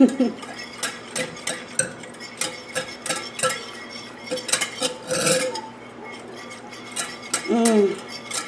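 A utensil stirring and clinking against a punch bowl of lemonade, with many light clicks several a second and a louder scrape about five seconds in.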